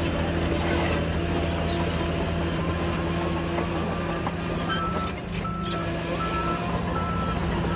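Diesel engines of heavy earthmoving machinery running steadily, with a reversing alarm beeping in a regular on-off pattern. A second, higher-pitched backup beeper starts about five seconds in.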